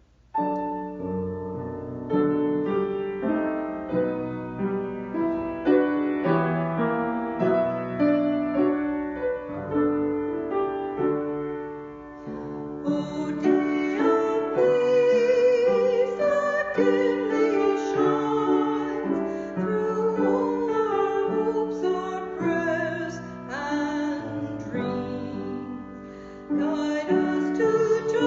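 Piano playing alone at first, then a singer's voice with wide vibrato comes in over it about halfway through, singing a slow melody with the piano accompaniment.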